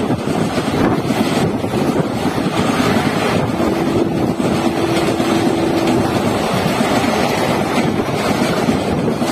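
Indian Railways express passenger coaches rushing past close by: a steady rumble and rattle of wheels on the rails, mixed with wind buffeting the microphone. A faint held tone comes in for about two seconds midway.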